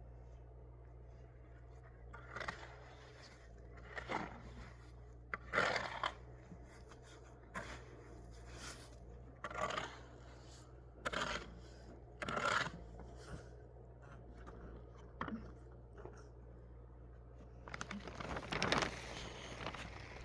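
Irregular scraping strokes, about a dozen, one to two seconds apart, over a steady low hum.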